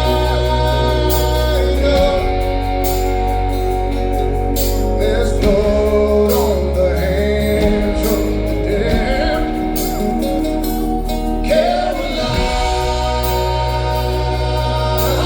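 A live rock band playing, with sustained chords, a steady drum beat with cymbals, and a sung vocal line without clear words.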